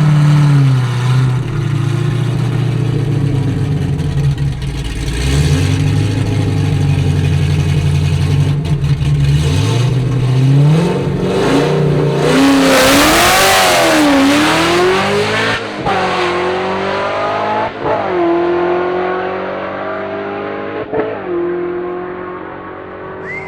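A drag car's engine revving up and down, then accelerating hard and climbing through several gear changes as it fades away down the strip.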